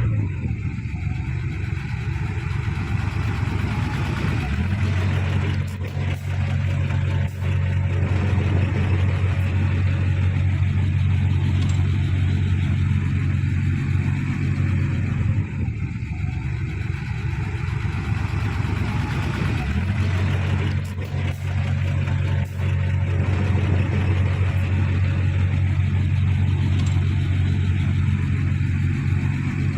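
Heavy diesel engine of earthmoving machinery running steadily under load, a deep low rumble that dips briefly a few times.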